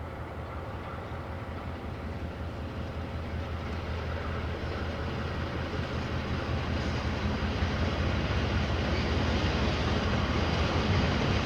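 Diesel locomotive approaching, its engine hum growing steadily louder as the train draws near.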